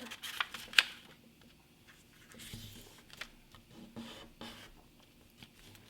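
A sheet of printer paper being folded and creased by hand: soft rustling, with a few sharp swipes near the start, the loudest just under a second in.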